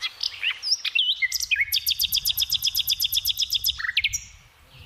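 Small songbird singing: a few quick whistled notes, then a fast, even, high trill of about ten notes a second that lasts about two seconds.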